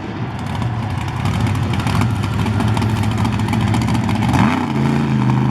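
Monster truck engine running with a steady low hum.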